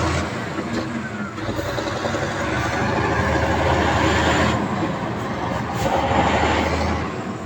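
Heavy earthmoving machine's diesel engine running, with a steady low hum under dense rattling noise.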